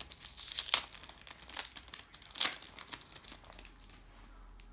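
Foil trading-card packet wrapper crinkling with sharp crackles as it is handled, busiest in the first three seconds and then dying away.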